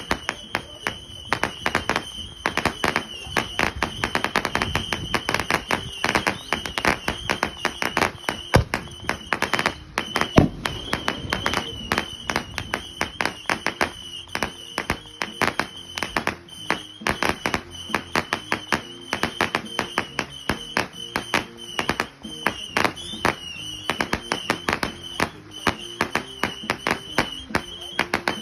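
Fireworks crackling and popping without a break, several sharp reports a second, with a steady high-pitched tone running under them.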